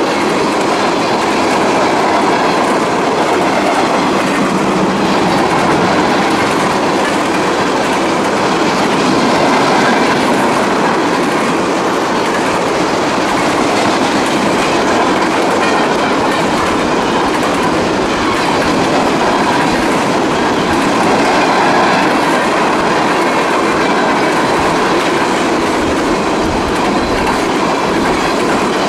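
Freight train cars rolling past at speed, a steady loud rumble of steel wheels on rail with a continuous clickety-clack.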